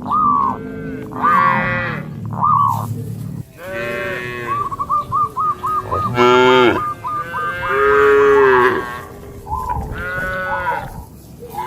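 Cattle mooing, a string of overlapping calls at different pitches from several animals, some long and drawn out, some short. About four seconds in, a quick run of short high chirps rides under the calls.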